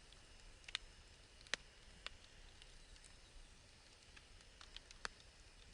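Firewood burning in a fire pit, crackling with scattered sharp pops, the loudest about a second and a half in, over a faint hiss.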